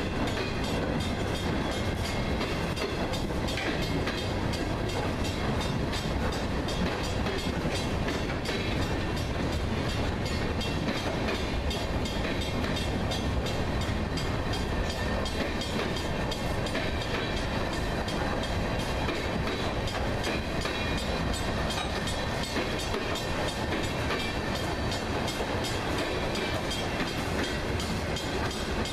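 Freight train cars rolling steadily past close by: a continuous rumble and clatter of steel wheels on the rails.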